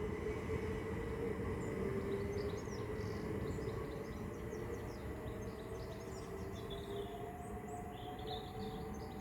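Class 387 electric multiple unit at the platform, its electrical equipment giving a steady hum; in the second half a whine rises slowly in pitch as the train begins to pull away. Birds chirp now and then.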